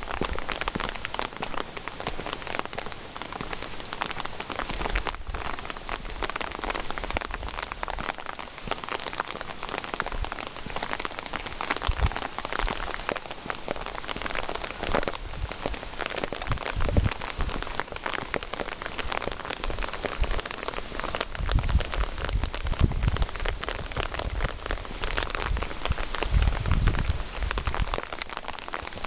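Steady rain falling, a dense hiss full of close individual drops tapping. Low rumbles come and go in the second half.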